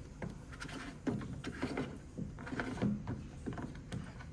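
Plastic clicks and knocks as a part at the bottom front of a front-loading washing machine is twisted and pulled open by hand.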